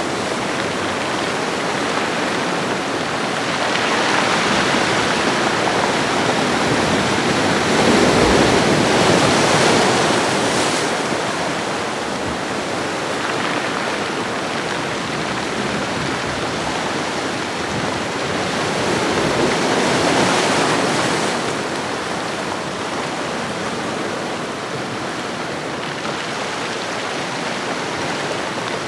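Ocean waves washing onto a shoreline: a steady rush of surf that swells louder from about four to ten seconds in, and again around twenty seconds, then eases.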